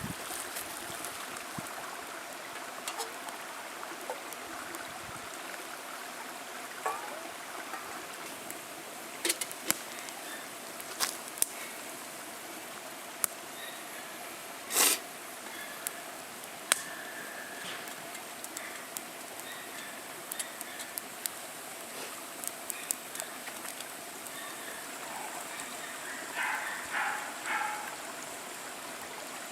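Wood fire crackling in a small wire-mesh fire stand, with sharp pops now and then, the loudest about halfway through, over a steady rushing hiss like flowing water.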